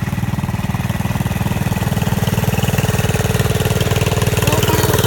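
Small garden tractor engine idling steadily, with an even rapid putter.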